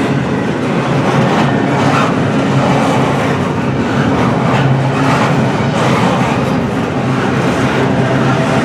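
Double-stack intermodal well cars rolling past: a steady rumble of steel wheels on rail, with occasional clacks.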